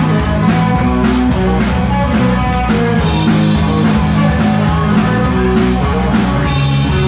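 Rock band playing live: electric guitar over bass guitar and a drum kit, in an instrumental passage with no singing.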